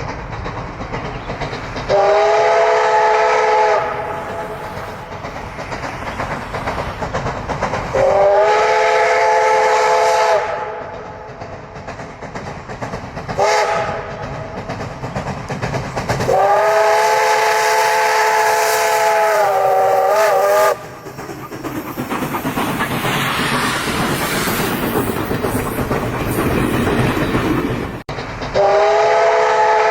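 Steam locomotive whistle blown in four blasts, the third the longest, wavering just before it cuts off. Each blast sounds several notes at once. Between the blasts the train's running noise goes on, with rail clickety-clack and hiss.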